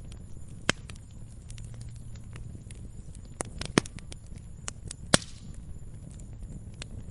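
Wood log fire crackling in a fireplace: scattered sharp pops and snaps over a steady low rumble of the flames, the loudest pop about five seconds in.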